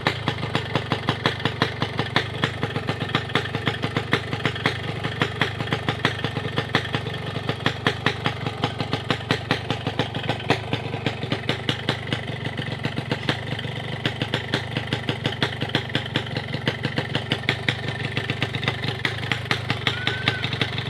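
Motorcycle with a chamber exhaust idling steadily, a quick, even train of exhaust pulses with no revving.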